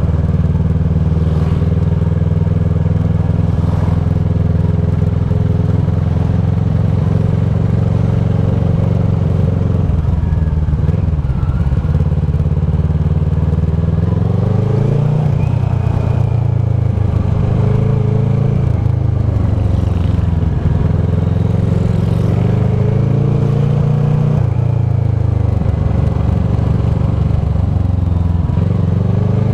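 Kawasaki ER-6f's parallel-twin engine running through a Leo Vince SBK slip-on exhaust. The exhaust note holds steady for about ten seconds, then rises and falls again and again with the throttle.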